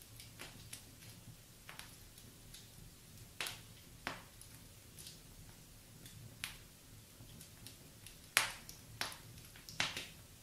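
Wood fire in a fireplace crackling: irregular sharp pops and snaps over a soft low rumble of the flames, the loudest pop about eight seconds in and a quick cluster near the end.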